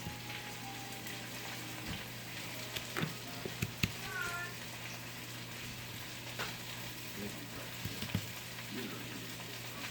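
Breaded steak pieces frying in hot oil in a pan, a steady sizzle, with a few sharp clicks of utensils or pan about three to four seconds in.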